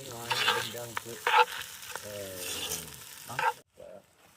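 Food frying and sizzling, with a man's voice talking indistinctly over it; the sound cuts off suddenly about three and a half seconds in.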